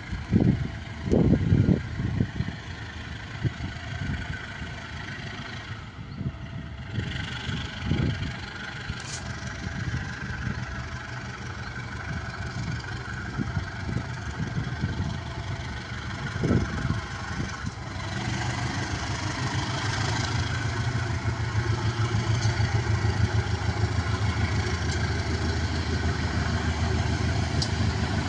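Heavy engine running steadily, with a low rumble that grows louder about two-thirds of the way through and a few low thumps near the start.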